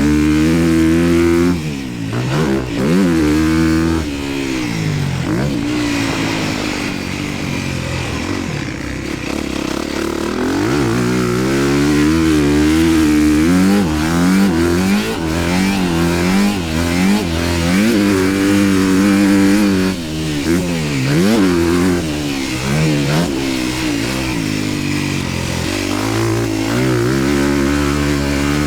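Honda dirt bike engine revving up and falling off over and over as it is ridden, the pitch climbing hard under throttle and dropping away each time the throttle is shut, with short dips at the shifts.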